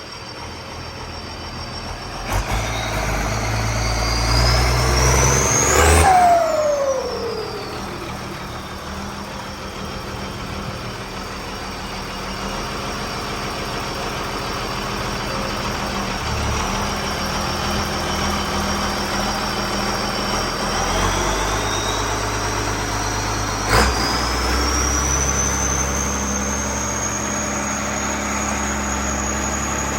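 Ford 8210 tractor's turbocharged six-cylinder diesel running. A high turbo whine rises to a peak about six seconds in and then falls away. Near the end the whine climbs again and holds steady and high, with a sharp click just before it.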